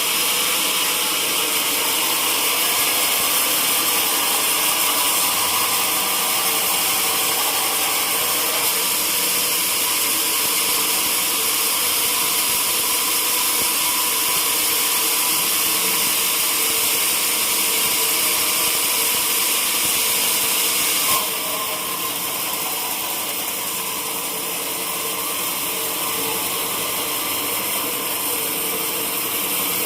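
Sawmill saw running steadily through a teak log, a loud continuous machine noise with a strong high hiss. About two-thirds through there is a brief click, then the sound drops a little and changes tone.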